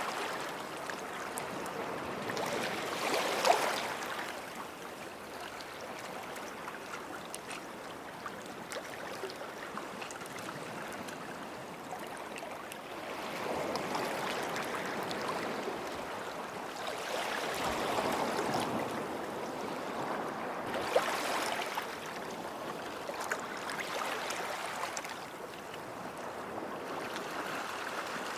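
Small waves washing in and breaking on a shore, swelling and fading several times with a steady wash of water between.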